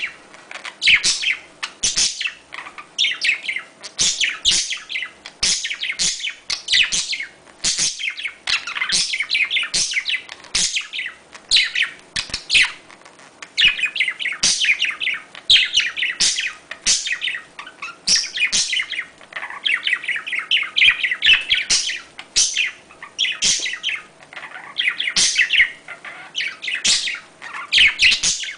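Budgerigars chattering: a fast, unbroken stream of short chirps and warbles.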